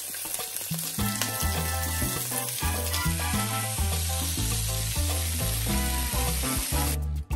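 Razor clams sizzling and frying in a hot griddle pan, with background music and a bass line playing over it. The sizzling stops abruptly near the end while the music continues.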